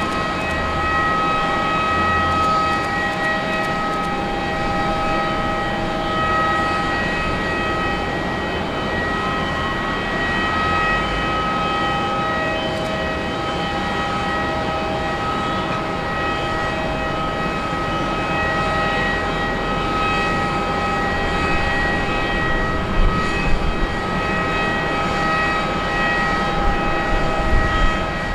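Airbus A350-941's Rolls-Royce Trent XWB turbofans running at steady thrust: a continuous jet rumble with several steady high whining tones over it. A few brief low bumps come near the end.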